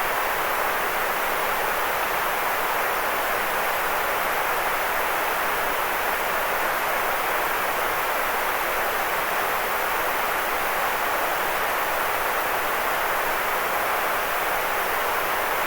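White noise played for sleep: a steady, unbroken hiss that never changes, strongest in the middle range with little deep rumble or top-end sizzle.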